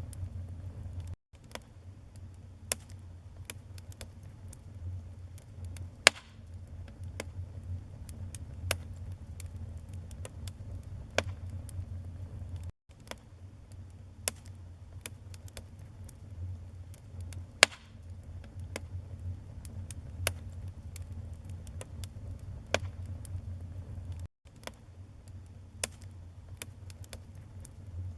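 Wood fire burning in a fireplace: a steady low rumble with irregular sharp crackles and pops, a few of them much louder. The sound drops out for an instant three times.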